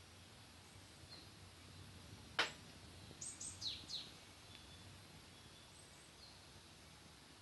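Wood fire in a Picogrill 498 fire pit giving one sharp crackling pop about two and a half seconds in, followed by a bird calling four quick falling chirps; fainter bird chirps come and go.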